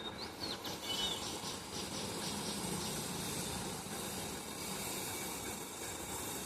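Bird calls: a couple of short whistled notes and a quick series of repeated notes in the first two seconds, over a steady hiss.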